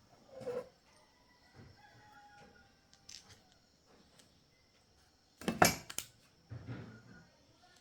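Small metal parts and tools clicking and clattering as they are handled on a work surface, with the loudest knocks clustered about five and a half seconds in.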